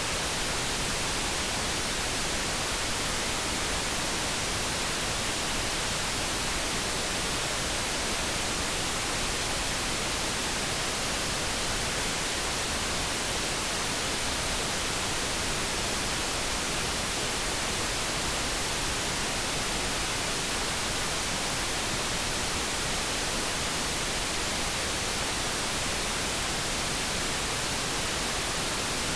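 Steady light brown noise, an even, unchanging hiss with no tones or breaks.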